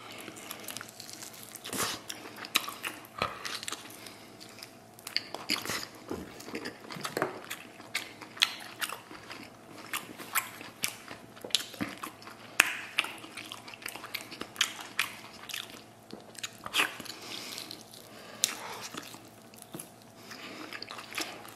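Close-up sounds of a person biting and chewing stewed lamb ribs, gnawing the tender meat off the bone, with many irregular sharp mouth smacks and clicks.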